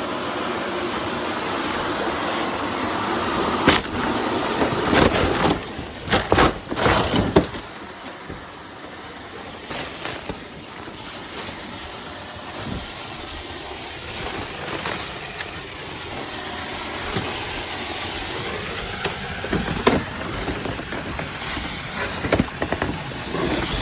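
Water hissing and spraying from a broken water service pipe where it comes in from the street, a steady rushing hiss. Several knocks and clatters sound in the first several seconds, after which the hiss is quieter.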